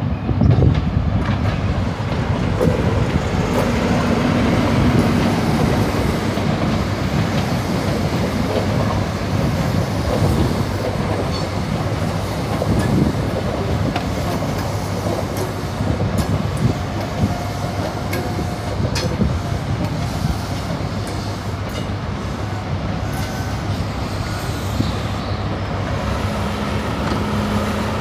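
Diesel passenger train moving through the station: a steady engine and wheel rumble, with scattered clicks of the wheels over rail joints and a few brief, faint wheel squeals.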